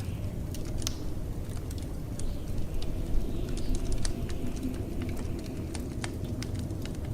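Wood fire crackling in a fireplace, with many scattered sharp pops and snaps, over the steady low rumble of blizzard wind. A faint high wavering whistle of wind comes and goes a few seconds in.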